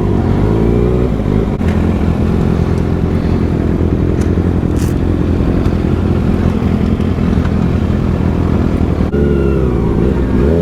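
Motorcycle engine running steadily while riding. About nine seconds in the sound changes abruptly and the engine pitch dips, then rises.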